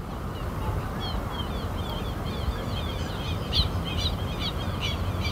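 Small birds chirping, many short high calls repeated over a steady low rumble.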